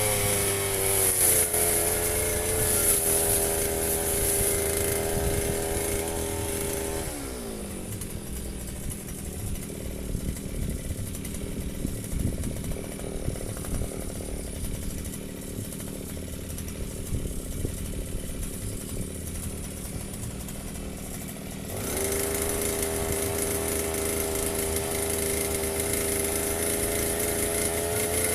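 Firman FGB 528 two-stroke brush cutter engine running at high revs, dropping to a low idle about seven seconds in when the throttle is released, idling for some fifteen seconds, then revving back up to full speed.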